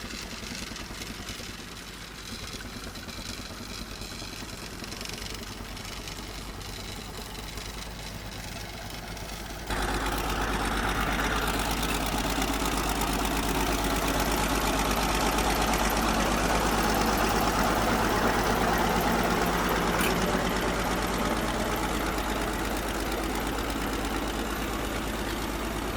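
Vintage tractor engines idling steadily. About ten seconds in the sound jumps abruptly louder and fuller.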